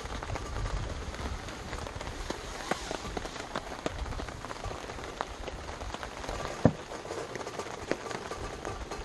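Rain falling on a surface, an even hiss dotted with scattered drip clicks, with one sharper knock about two-thirds of the way through.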